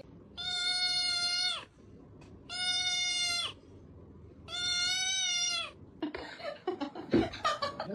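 Three long, even meows, each about a second and dipping in pitch at the end, followed in the last two seconds by a quick run of clicks and knocks.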